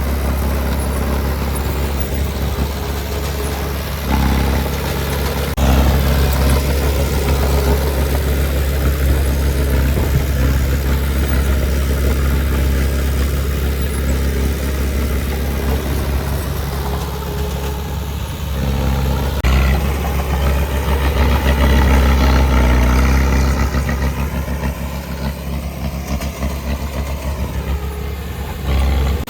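Heavy earthmoving machine's diesel engine running steadily with a deep low drone, swelling louder at times as it takes load.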